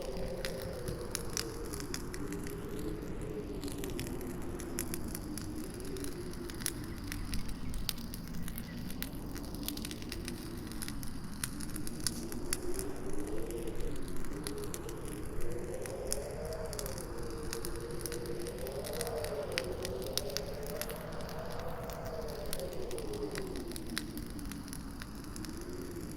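Campfire crackling with frequent sharp pops, over a howling wind whose low pitch slowly rises and falls.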